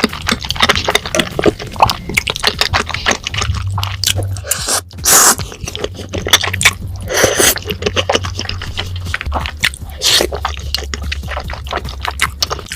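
Close-miked mukbang eating: chewy rice cakes in a thick creamy sauce being chewed open-mouthed, with rapid wet, sticky clicks and smacks.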